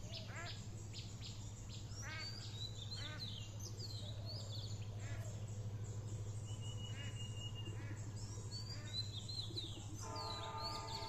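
Several birds chirping and calling in quick, short notes over a steady low hum. About ten seconds in, a brief call with several evenly spaced tones stands out.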